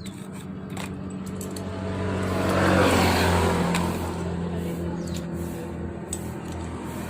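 A motor vehicle engine running steadily with a low hum, growing louder about three seconds in and then easing back.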